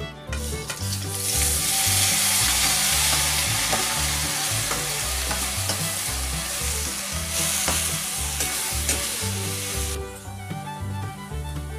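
Green pea paste sizzling and frying in hot oil in a steel pan as it is tipped in and stirred with a spatula. The frying hiss starts about a second in and cuts off suddenly near the end.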